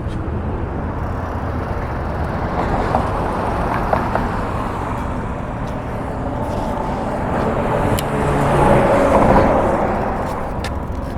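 Road traffic passing close by: cars driving past one after another, the loudest passing near the end.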